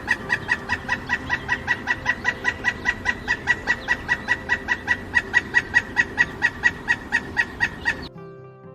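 Woodpecker calling: a long, even run of short, sharp notes, about four or five a second, louder in the second half, stopping about eight seconds in.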